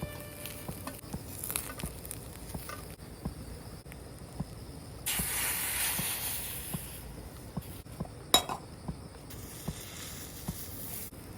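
Food sizzling in a pan over a wood-fired stove, with small crackles all through. A louder hiss comes about five seconds in and lasts a couple of seconds. A sharp metal clink rings out a little after eight seconds.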